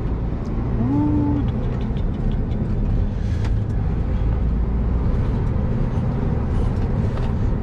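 Scania lorry's diesel engine running with a steady low drone, heard from inside the cab while driving. A short pitched tone rises and holds briefly about a second in.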